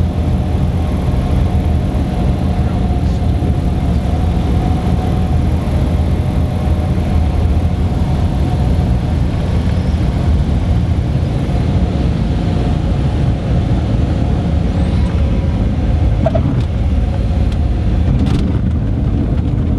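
Cessna 182 Skylane's piston engine and propeller running with a steady, low drone.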